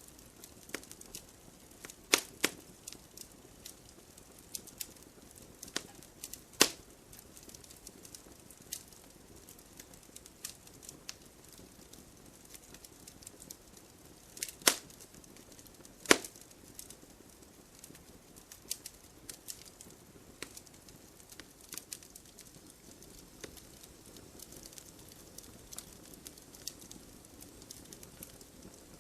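Burning firewood crackling: irregular sharp pops and snaps over a low hiss of the fire, with a few louder pops about two, six, fourteen and sixteen seconds in.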